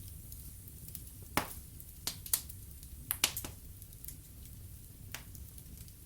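Wood fire burning in a fireplace, crackling with sharp, irregular pops, the loudest clustered between about one and a half and three and a half seconds in, over a low steady rumble.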